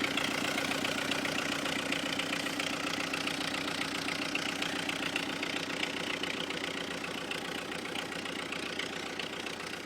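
Fiat 780 DT tractor's diesel engine idling steadily with a diesel clatter, still cold soon after a cold start in freezing weather.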